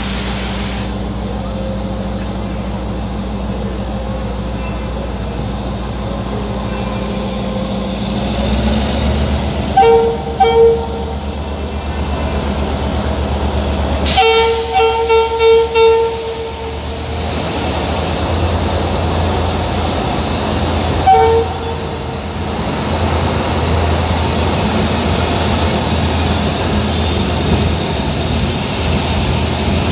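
Passenger train running with a steady low rumble that grows louder about eight seconds in. Its horn toots twice about ten seconds in, then four times in quick succession around fourteen to sixteen seconds, then once more around twenty-one seconds.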